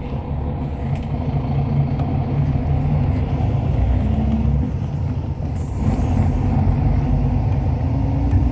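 Inside a moving Hyundai Universe Space Luxury coach: steady engine and road rumble. The engine note falls a little past halfway, then climbs steadily as the bus picks up speed.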